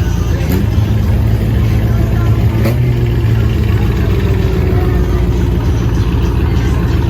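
Car engine idling steadily, its pitch rising a little about half a second in and settling back near three seconds, with two short sharp pops.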